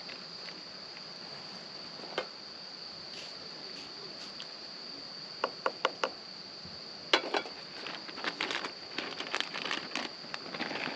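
A steady, high insect chorus drones throughout. Four sharp clicks come in quick succession about five and a half seconds in, then a run of knocks and rustling from about seven seconds on, loudest just after it starts.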